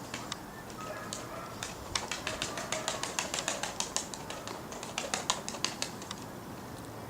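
A quick, irregular run of sharp claps, several a second, from about two seconds in until about six seconds in: pigeons' wings beating.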